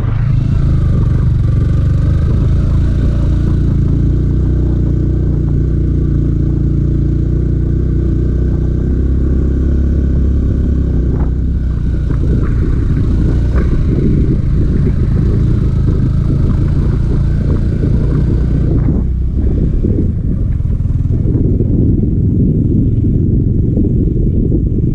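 Yamaha R15 V4 motorcycle's single-cylinder engine running steadily at road speed, with wind rumbling on the microphone. After about nineteen seconds the engine note fades and the wind rumble takes over.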